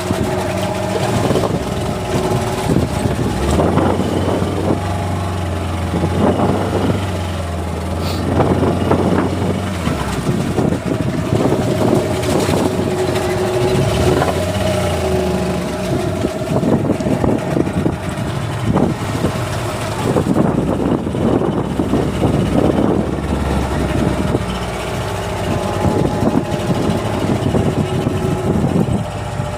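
A boat's engine running steadily over a rough, rushing noise that swells and fades.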